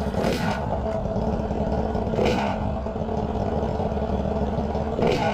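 Motorcycle engine running through a homemade exhaust pipe made from a large baseball bat, with a steady low hum and three brief louder bursts.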